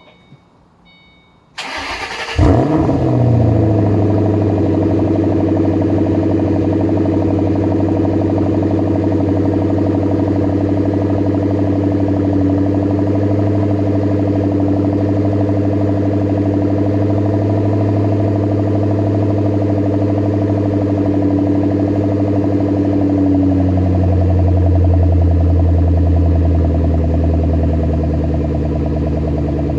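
2009 Shelby GT500's supercharged 5.4-litre V8 with a Ford Racing exhaust, cold-started: a brief crank, then it catches with a loud flare about two seconds in. It settles into a steady high cold-start idle, and the idle steps down to a lower, deeper note a little over twenty seconds later.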